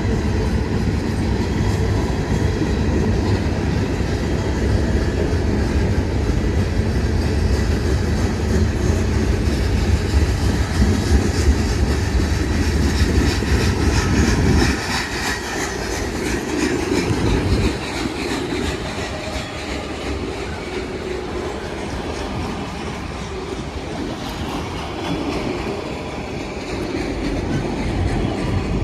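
Freight train passing close by. The heavy rumble of its diesel locomotives drops off abruptly about halfway through. The cars then roll past with a steady rattle and wheels clicking over the rail joints.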